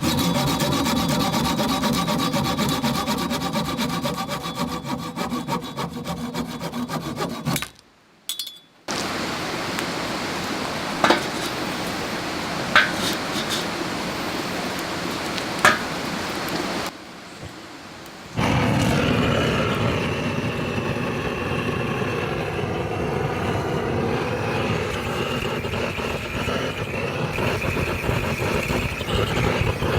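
Saw cutting through wood in steady strokes, heard in several short edited clips, with a few sharp clicks in the middle clip.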